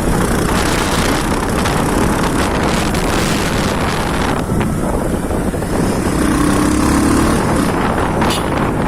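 Wind buffeting the microphone over the steady running of a 220 cc motorcycle on the move.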